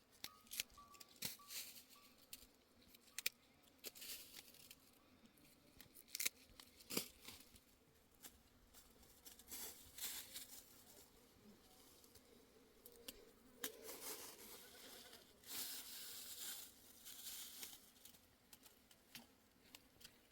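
Faint, irregular rustling, scraping and clicks of handwork, with a longer stretch of rustling near the end.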